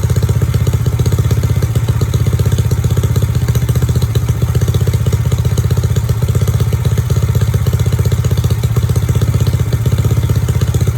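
Honda Vario 125 scooter's single-cylinder four-stroke engine, bored up to 150cc, idling steadily through an aftermarket racing exhaust, with an even, rapid exhaust pulse.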